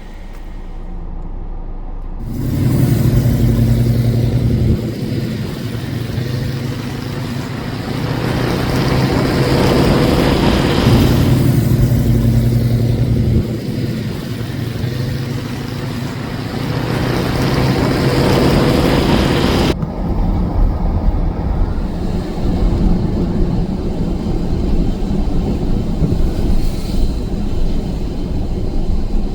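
Ford Falcon hardtop car engines running and revving loudly, the engine note rising and falling. It starts about two seconds in and changes suddenly about two-thirds of the way through to a lower, rougher rumble.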